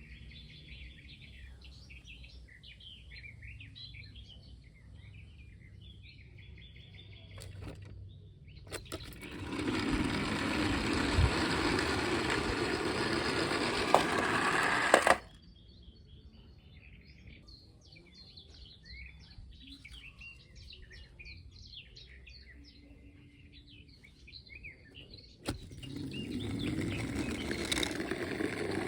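Small birds chirping, broken twice by a loud, rough rolling or scraping noise: once for about five seconds from about ten seconds in, and again from near the end.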